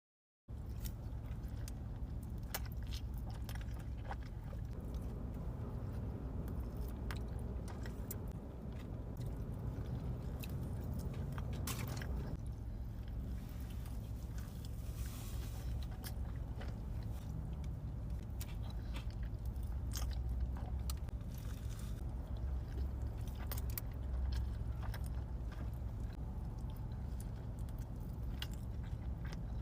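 Close-miked eating: a person biting and chewing food, with wet mouth clicks and crunches throughout, over a low steady hum. It starts suddenly about half a second in.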